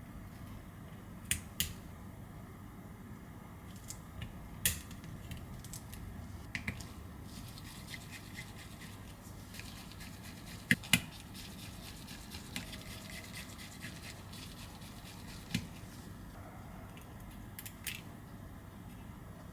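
Scattered small sharp clicks and taps of precision tools on an iPhone 11's frame as the tiny screws around the charging port are taken out, with a steady faint hiss underneath. The loudest are two quick clicks about eleven seconds in.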